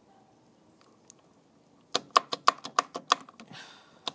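Near quiet for about two seconds, then a quick run of sharp, evenly spaced clicks, about four a second.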